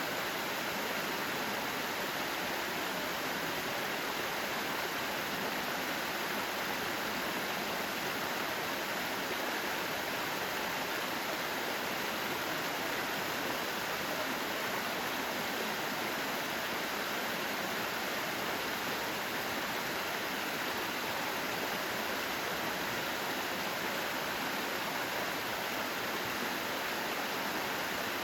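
Mountain valley stream flowing steadily, an even, unbroken rush of water.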